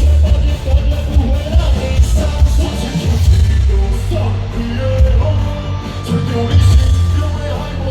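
A band playing loud live rock music with a singer and a heavy low bass.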